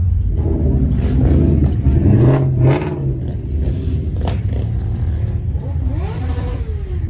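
Car engines running with a steady low rumble, one revving up briefly about two seconds in. A sharp click a little after four seconds.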